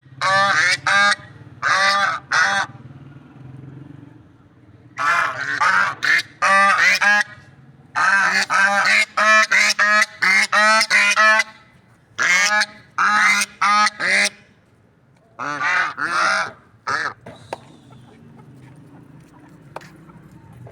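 Guinea fowl calling loudly: harsh, honking calls in quick runs of two to five, repeated over and over, trailing off a few seconds before the end.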